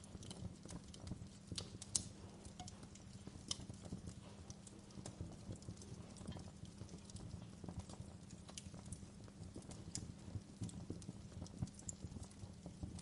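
Wood fire crackling, with irregular sharp pops and snaps, one loudest about two seconds in, over a low steady rumble of the flames and gentle rain.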